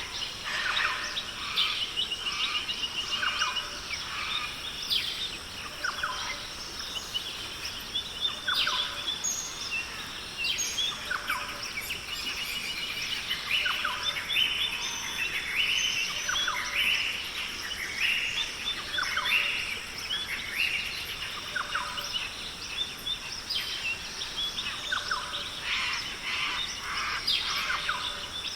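A chorus of many birds chirping, trilling and calling at once, overlapping throughout, over a steady high-pitched drone.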